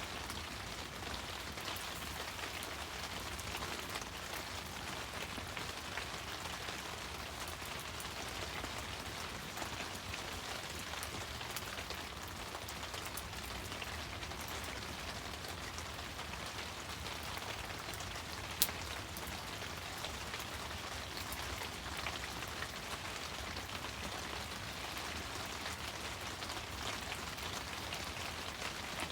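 Wood fire burning with a steady, dense crackle of small pops, and one sharper pop about two-thirds of the way through.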